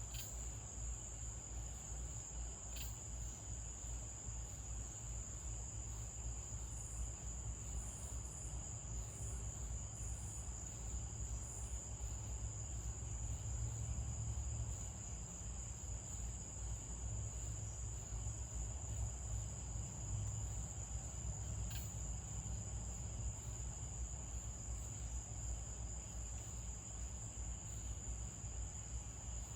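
Crickets trilling in one unbroken high-pitched tone, over a low steady rumble. A few faint, higher short chirps come in about a third of the way through, and there are a few faint clicks.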